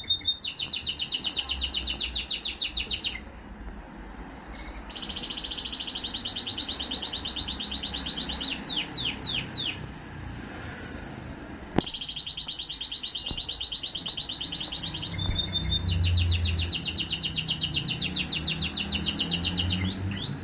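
Male Timbrado canary singing in long, very fast metallic trills, phrase after phrase with short pauses between, and a few separate sweeping notes about nine seconds in. A single sharp click sounds near the middle.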